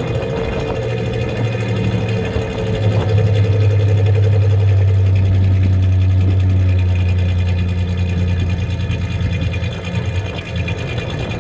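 1993 Ford Ranger's 3.0 L V6 idling steadily, an engine with a misfiring cylinder.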